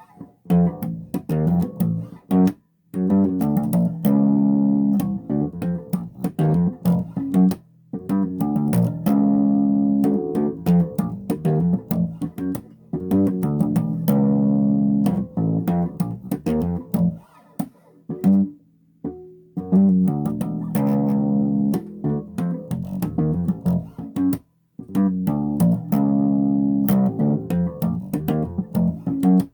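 Electric bass guitar being played: a run of plucked notes in phrases, broken by a few short pauses.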